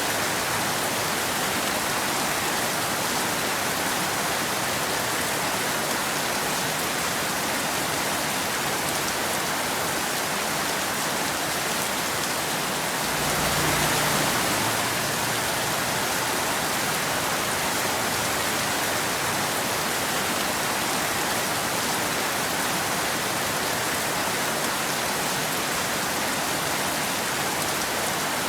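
Steady rain falling on a hard surface, an even hiss without thunder, swelling slightly for a moment about halfway through.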